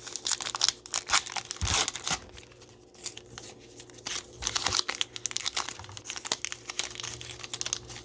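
Cellophane wrapper of a Mosaic Football cello pack of trading cards being torn open and crumpled, with dense irregular crinkling and a brief lull about two and a half seconds in.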